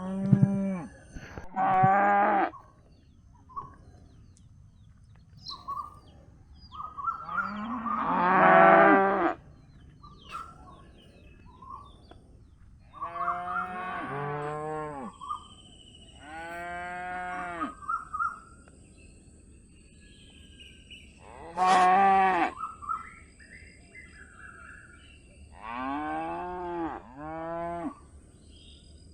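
Calf mooing repeatedly: about eight short, pitched bawls with pauses between them. The longest and loudest comes about eight seconds in, and two quick calls close together come near the end.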